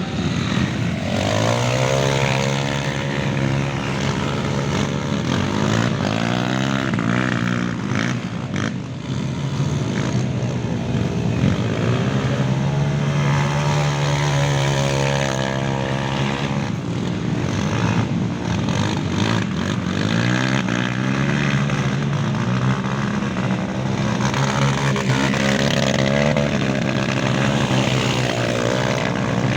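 Trail motorcycle engines revving hard, their pitch rising and falling again and again, with more than one bike audible at times.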